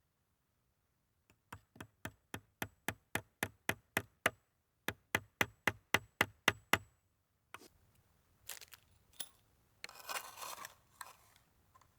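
Two quick runs of even, sharp knocks, about four a second with a short break between them, followed by some rustling and handling noise.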